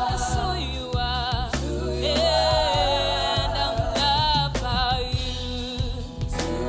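Live gospel worship music: a singer holding long, wavering notes over keyboard and bass accompaniment.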